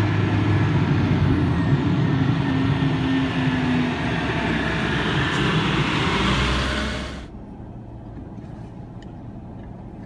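Garbage truck running loud, its engine rumbling under a broad hiss. About seven seconds in the hiss and most of the noise stop abruptly, leaving a quieter low idle.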